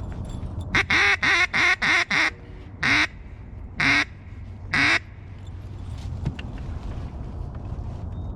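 Mallard duck call blown close by in loud hen quacks: six in a quick run, then three slower ones about a second apart.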